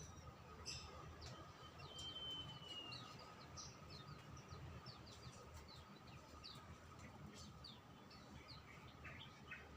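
Faint songbird chirping: many short, high chirps and a drawn-out whistled note that falls slightly in pitch about two seconds in, over a low background rumble.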